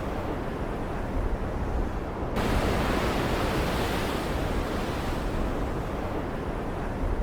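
Storm-at-sea ambience: steady ocean surf and rain noise over a deep low rumble. About two seconds in, a bright hiss switches on abruptly and runs until it drops out near the end.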